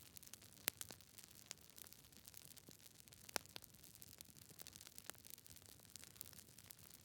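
Campfire crackling: scattered small snaps and pops from burning wood over a faint hiss, with two louder pops, one shortly after the start and one about halfway through.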